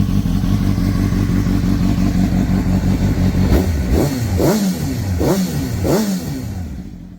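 Honda CBR600RR inline-four through a Yoshimura exhaust, idling steadily and then revved in four quick throttle blips, each climbing and falling back, in the second half.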